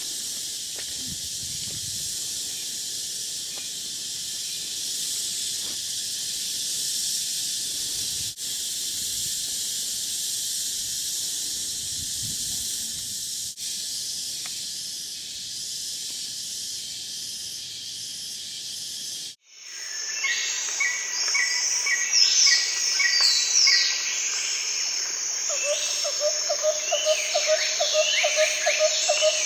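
Rainforest ambience. First a steady, high-pitched insect chorus that sounds like a hiss, with a couple of brief breaks. Then, about two-thirds of the way in, an abrupt change to a chorus of birds and insects: repeated chirps, whistled calls and a low trill.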